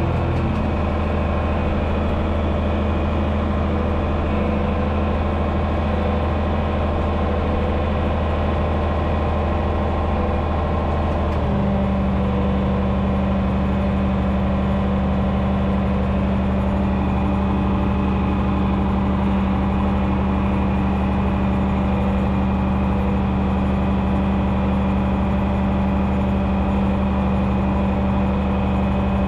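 John Deere 6030's turbocharged six-cylinder diesel running steadily under plowing load. Its note shifts once, about eleven seconds in.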